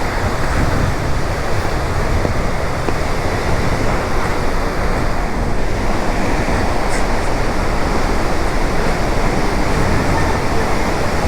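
Steady, loud rushing of Devi's Fall, a monsoon-swollen waterfall plunging into its gorge.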